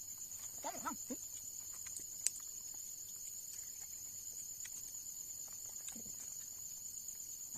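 Steady high-pitched chorus of night insects such as crickets, trilling without a break, with one sharp click about two seconds in.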